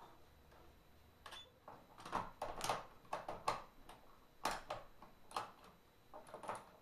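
Irregular light clicks and knocks, more frequent from about two seconds in, with no motor running: someone handling the sewing machine and its parts.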